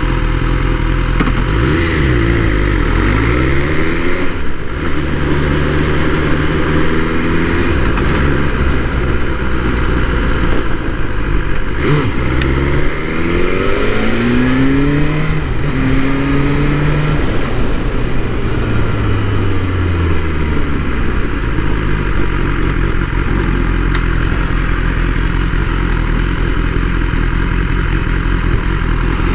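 BMW S1000R's inline-four engine pulling away and accelerating in several rising runs of revs, each dropping back as it shifts up. Then it comes off the throttle with falling revs and runs steadily at low revs near the end.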